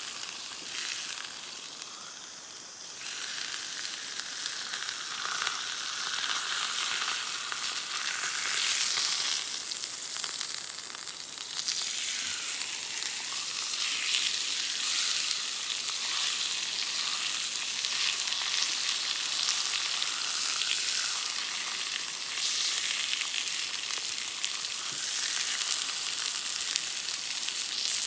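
Steak sizzling as it cooks over a campfire: a dense frying hiss with fine crackle, dipping briefly a couple of seconds in, then steady.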